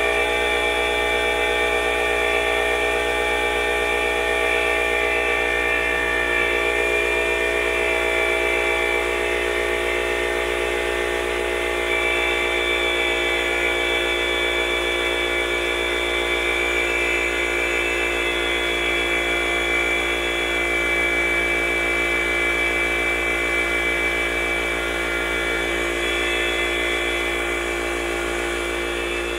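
Tagred TA375 oil-free two-piston air compressor running steadily, an even mechanical hum with a buzzy overtone that holds constant throughout.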